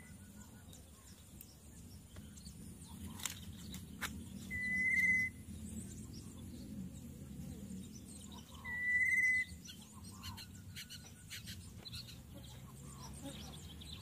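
A bird's high, wavering whistled note of just under a second, given twice about four seconds apart, with soft short chirps in between.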